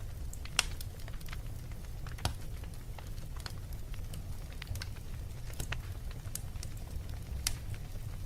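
Wood fire crackling in a fireplace: a steady low rumble of flames with irregular sharp pops and snaps, several of them louder than the rest.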